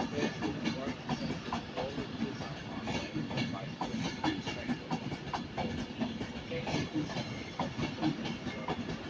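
Railway platform sound: a train moving slowly along the track with irregular clicking from its wheels, and voices talking in the background.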